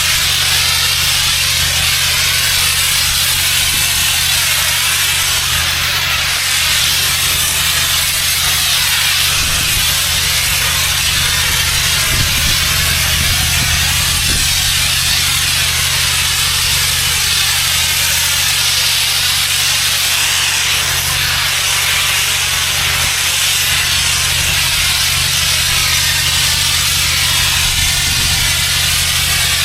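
Pressure washer running: a steady, loud hiss of the high-pressure water jet over the constant drone of its engine.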